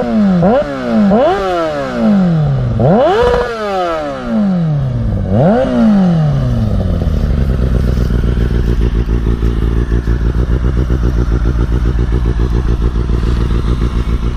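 2005 Kawasaki Ninja ZX-6R 636's inline-four through a Two Brothers exhaust, blipped about five times in quick succession, each rev climbing sharply and falling away. It then settles into a steady idle.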